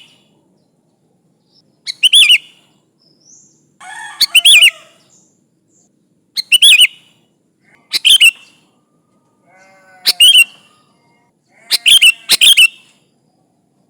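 Sooty-headed bulbul singing short, loud phrases of quick whistled notes, about one phrase every two seconds. Fainter, lower calls come in twice.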